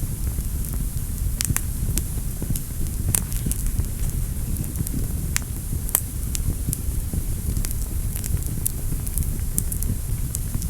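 Fire burning in a fireplace: a steady low rumble and hiss with frequent irregular crackles and pops, a few louder pops about three and six seconds in.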